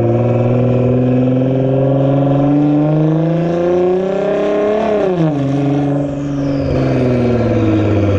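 Nissan GT-R's twin-turbo V6 through a straight-piped Nismo exhaust, the note climbing steadily as the engine pulls, dropping sharply about five seconds in, then holding lower and steady.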